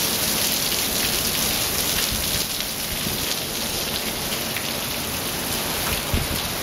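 Heavy downpour: rain pelting paving and grass in a steady, even hiss.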